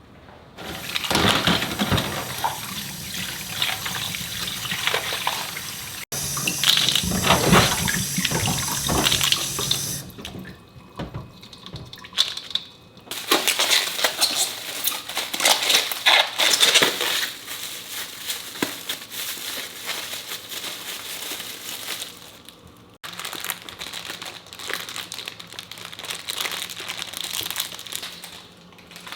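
Kitchen tap running into a sink while food is rinsed under it, heard in several short edited clips with sudden cuts between them.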